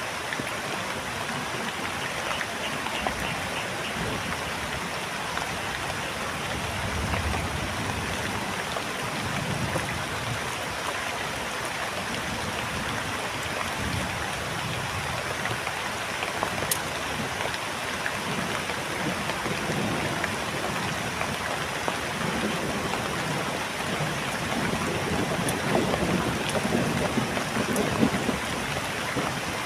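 Heavy rain falling steadily, a dense even hiss, with low rumbling swells now and then beneath it.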